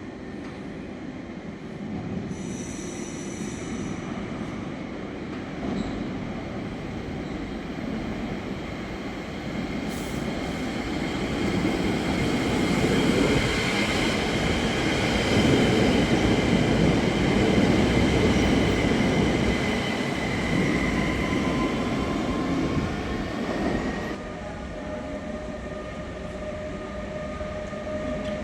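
A train running past on the tracks. The rumble of the wheels builds to a peak in the middle, with a high steady whine over it, and drops off sharply near the end.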